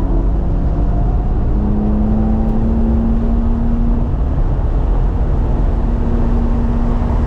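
The twin-turbo inline-six of a 2018 BMW M3 Competition running hard on track, heard from inside the cabin over heavy road and wind rumble. The engine note holds a steady pitch for long stretches.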